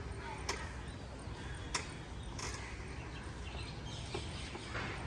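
Steady low rumble of background noise with three sharp clicks about half a second, a second and three-quarters, and two and a half seconds in.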